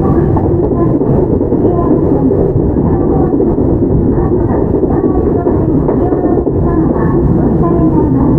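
Steady running rumble of wheels on rail and car-body noise, heard from inside a Toyama Chihō Railway 17480-series electric car, a former Tokyu 8090-series car with field-chopper control.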